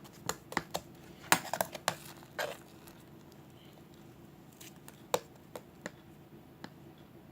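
Sharp clicks and taps of small hard objects, thickest in the first two and a half seconds, then a few scattered clicks against a low steady hum.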